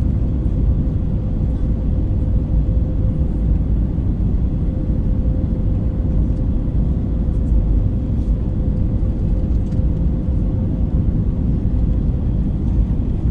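Cabin noise inside an Airbus A320 on final approach: a steady low rumble of engines and airflow, with a faint steady hum tone above it.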